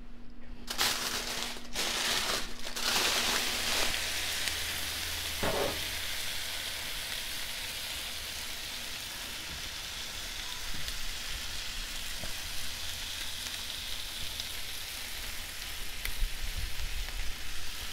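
Sauce-coated chicken wings sizzling on a hot flat-top griddle, a steady frying hiss. A few short rustling noises come in the first seconds before the sizzle settles in.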